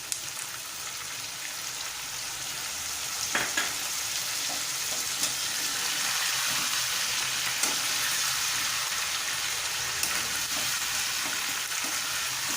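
Chicken pieces and onions sizzling in hot oil in a pan, the chicken's own water cooked off so it is frying dry. A spoon stirs and scrapes it, with a few sharp clicks against the pan.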